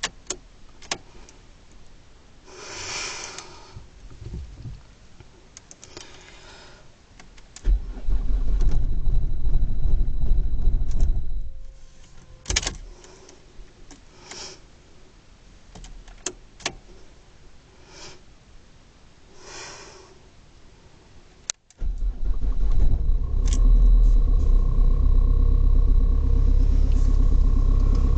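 Opel Astra 1.7 DTI four-cylinder turbodiesel being cold-started, with key clicks and jangling. A first attempt of about four seconds dies away. On a second try, about twenty seconds in, the engine fires and settles into steady running. This is a hard cold start, which the owner puts down to the glow plugs.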